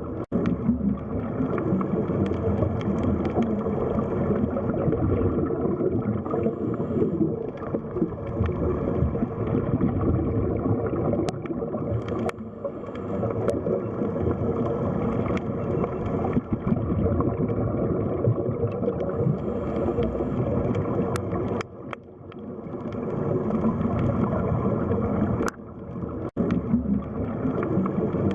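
Underwater sea ambience: a steady, dense low rumbling wash of water with gurgling, a few faint clicks, and two brief dips in level in the last third.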